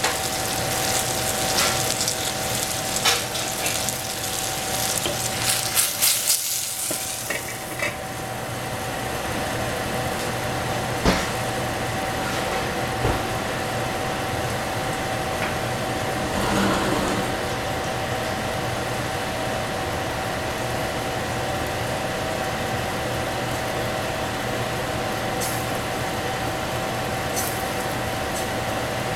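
Egg and oyster mushrooms sizzling as they fry in a stainless steel saucepan, with the clicks and scrapes of stirring. About a quarter of the way in, the sizzle cuts off as the pan is covered, leaving a steady hum and one sharp knock.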